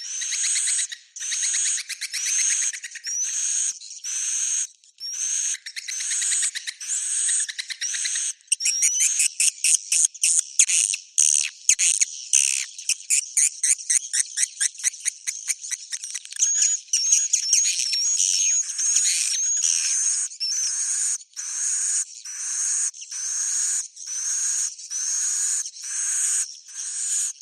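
Edible-nest swiftlet roosting ('inap') calls of the kind used to lure swiftlets into a swiftlet house. Twittering chirps repeat about once every 0.7 s. Starting about 8 s in, they break into a fast run of clicking, rattling twitters with some rising whistled notes. Near the end the regular chirps return.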